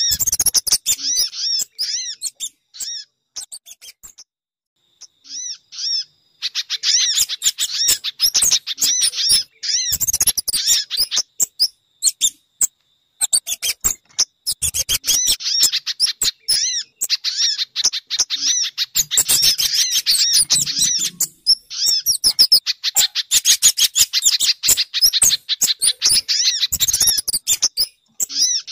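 Bird-lure recording of small birds calling, a mix meant to draw sogon, pijantung (spiderhunter) and kemade. Rapid high chirps come in long dense runs, broken by short pauses around five seconds in and again around twelve seconds in.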